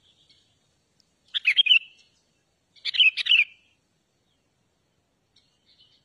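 A bulbul singing two short, bubbly phrases of quick notes about a second and a half apart, with faint chirps before and after.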